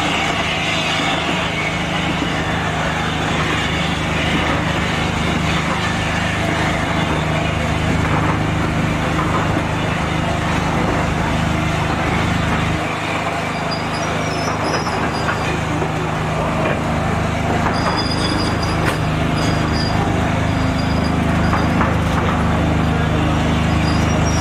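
A passenger train runs slowly through a station, heard from on board: a steady rumble and drone of the moving coach on the track. In the second half, faint high wheel squeals come in now and then.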